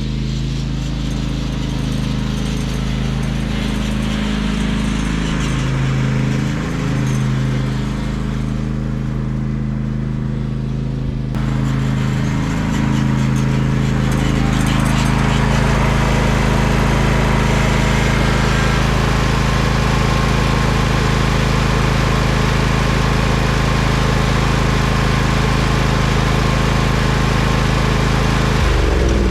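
Briggs & Stratton engine of a Husqvarna riding mower running steadily as it warms up before an oil change. About eleven seconds in a louder hiss joins the engine note, and near the end the engine speed drops.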